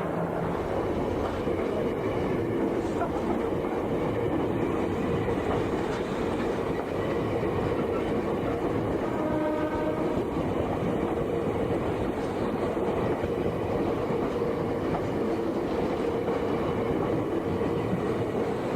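Meitetsu Inuyama Line electric train running, a steady rumble with a humming tone throughout and a short pitched tone about halfway through.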